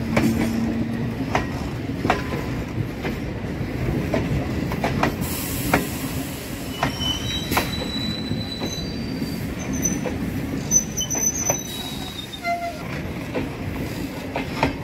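Express train's passenger coaches rolling past close by: a steady low rumble with wheels clacking over rail joints at uneven intervals, and thin high wheel squeals around the middle.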